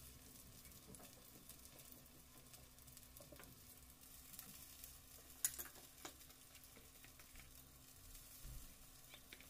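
Faint sizzling of cauliflower-and-carrot fritters frying in oil in a pan, with light taps and clicks of a fork and spatula turning them, the sharpest clink about five and a half seconds in.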